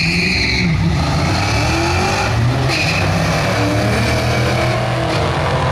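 Fifth-generation Chevrolet Camaro accelerating hard down a drag strip, its engine running loud. A high steady whine sounds near the start and again about three seconds in.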